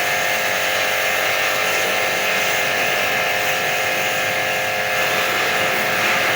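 Electric pressure washer running steadily, its motor whining over the hiss of the water spray.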